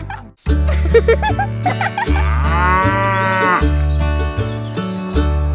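A cow mooing, one long call that rises and falls in pitch from about two to three and a half seconds in, over background music with a bass line that steps from note to note. The sound drops out for a moment just after the start.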